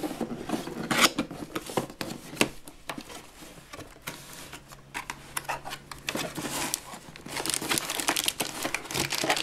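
Cardboard toy box being opened by hand: the flaps and the cardboard insert rubbing and scraping, with the plastic wrapping crinkling. The rustles and crinkles come thicker and louder over the last few seconds.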